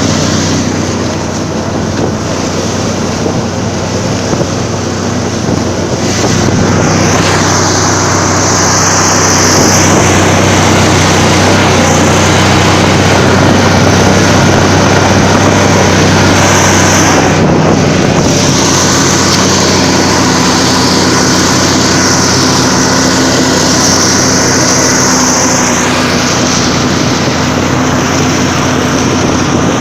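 Buran 4T snowmobile's four-stroke engine running hard at speed, a steady loud drone with wind rushing over the microphone.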